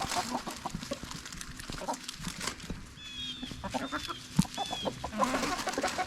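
Chickens clucking, with several short high-pitched calls about three to five seconds in, over scattered light taps and rustles.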